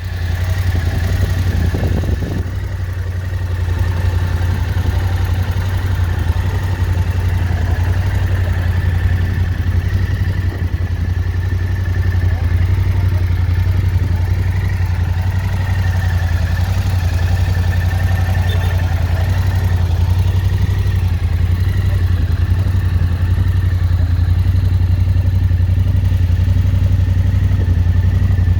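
Yamaha Ténéré 700's parallel-twin engine idling steadily through an aftermarket stainless-steel exhaust system.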